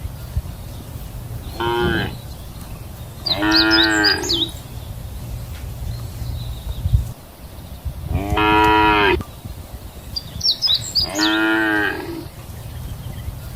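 Cattle mooing: four calls, a short one followed by three longer, drawn-out moos spaced a few seconds apart. A steady low rumble runs underneath.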